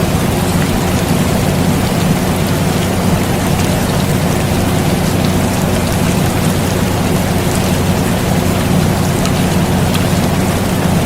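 Air conditioner running with a steady low hum, mixed with steady rain and the scattered ticks of raindrops.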